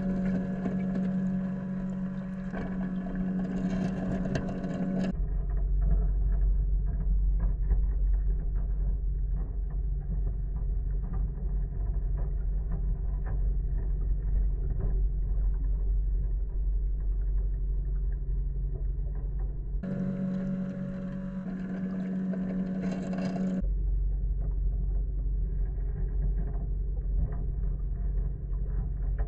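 Robotic pool cleaner running in the pool: a steady low rumble with small clicks, muffled as if heard through water. Twice, at the start and about two-thirds through, this changes to a clearer steady hum for a few seconds.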